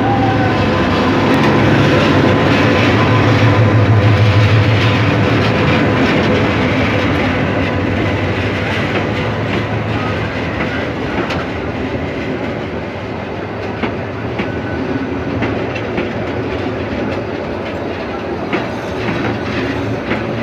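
A diesel locomotive passes close by, its low engine hum loudest about four seconds in. Passenger coaches then roll past, with the clickety-clack of wheels over rail joints.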